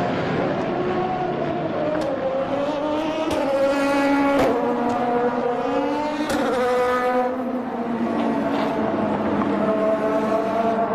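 High-revving racing engine accelerating through the gears: the pitch climbs, then drops sharply at an upshift about four and a half seconds in, and again a couple of seconds later.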